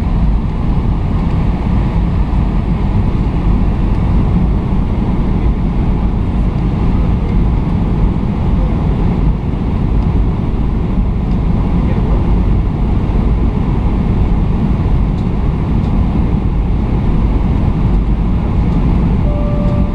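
Boeing 757 cabin noise: a steady low rumble of engines and airflow. A short tone sounds near the end.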